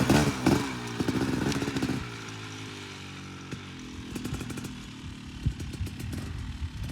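Two-stroke dirt bike engine revving in short bursts of throttle, then dropping back to a steadier, lower running note, with a few scattered knocks and clatters.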